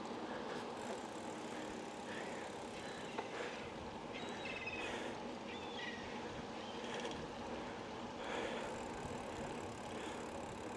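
A bicycle rolling along a street: steady tyre and wind noise, with a few short high chirps about four to six seconds in.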